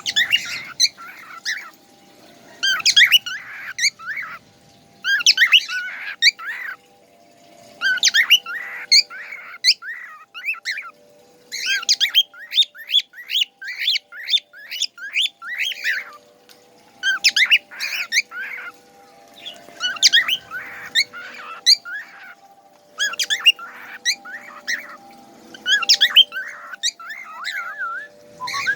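A songbird singing in repeated phrases of rapid chirps, trills and whistles. Each phrase lasts one to three seconds, with short pauses between them.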